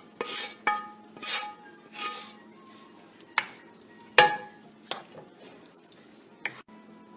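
A spoon stirring chicken pieces into thick gravy in a cooking pot. There are several scraping strokes, then a few sharp knocks of the spoon against the pot, each with a short ring.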